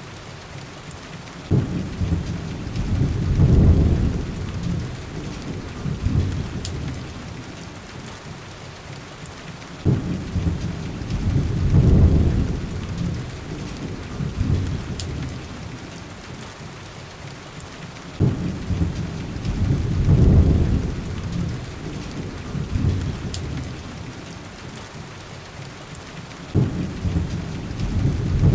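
Steady heavy rain with low thunder rumbles that break in suddenly and swell before fading, four times about eight seconds apart. A few faint pops of fire crackle sit over the rain.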